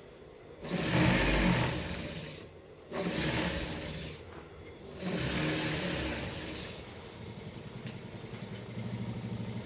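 Sewing machine running in three bursts of a second or two each, then running more quietly with an even rhythmic beat near the end.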